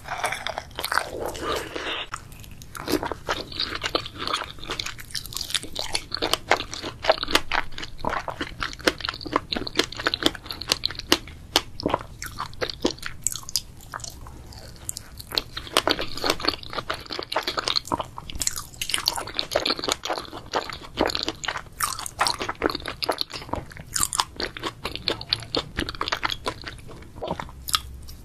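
A person biting and chewing soft cream-filled mochi close to the microphone: sticky, wet mouth sounds made up of many small clicks in dense clusters.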